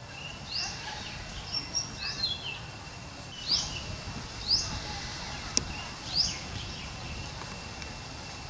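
A bird calling: short rising chirps, roughly one a second, over a faint steady high tone and outdoor background hiss. There is one sharp click about five and a half seconds in.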